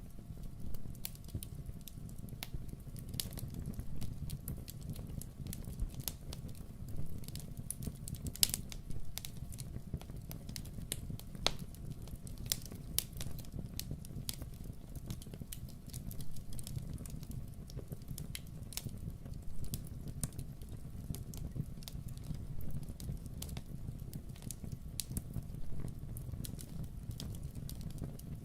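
Wood fire crackling in a fireplace: many irregular sharp pops and snaps, several a second, over a steady low rumble.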